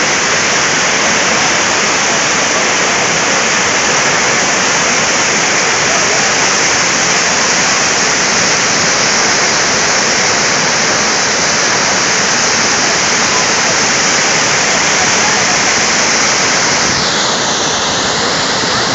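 Sa'ar waterfall in full winter flow: a loud, steady rush of falling water, with a slight change in its hiss near the end.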